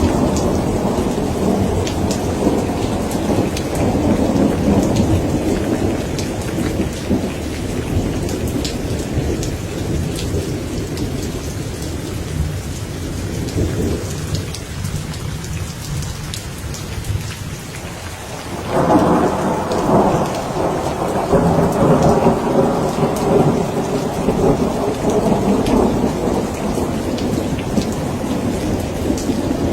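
Heavy rain pattering steadily with rolling thunder. One roll dies away through the first half, and a new thunderclap breaks suddenly a little past the middle and rumbles on to the end.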